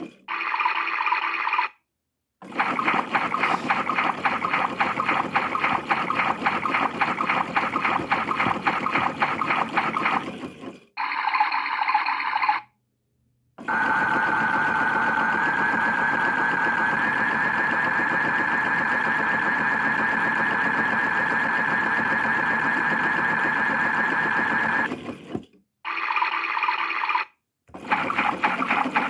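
PlayGo toy washing machine playing its electronic cycle sound effects through its small speaker as its buttons are pressed. A busy, rhythmic sloshing-water washing noise cuts off and restarts several times. About halfway in it gives way to a steady high electronic whine lasting about eleven seconds, which steps up slightly in pitch soon after it starts.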